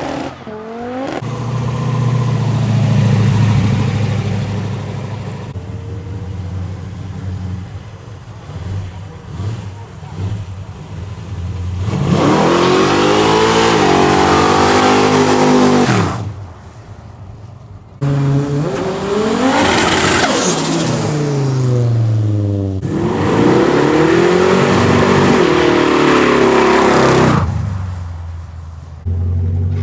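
A succession of cars accelerating hard past, one after another. Engine notes rise as they rev and fall away as each car passes, with abrupt changes from one car to the next.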